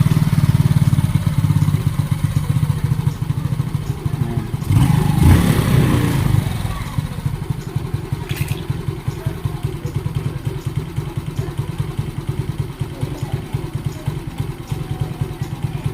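Suzuki Smash motorcycle's single-cylinder four-stroke engine running just after a cold start. It swells louder for a couple of seconds about five seconds in, then settles to a lower, pulsing idle. The idle is uneven because of an air leak from a holed vacuum hose.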